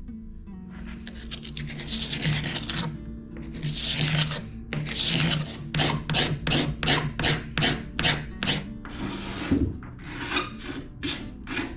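Razor blade scraping hardened epoxy and fiberglass on a wooden kayak hull: two long, slow strokes, then a quick run of short strokes, about two to three a second.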